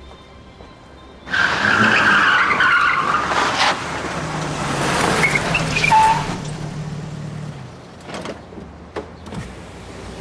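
A car's tyres squeal as it pulls away hard, starting suddenly about a second in, followed by the car's engine running as it drives off, with a few short knocks near the end.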